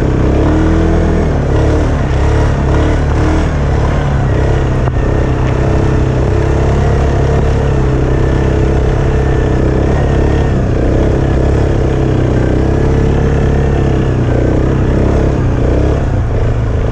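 Four-wheel-drive ATV engine running steadily while riding, its pitch rising and falling a little with the throttle.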